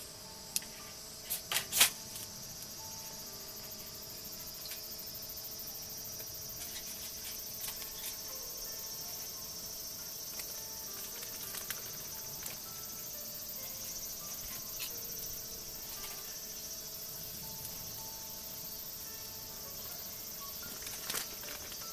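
Steady chorus of insects, a high-pitched trill that keeps going without a break. A few sharp knocks come about two seconds in and again near the end.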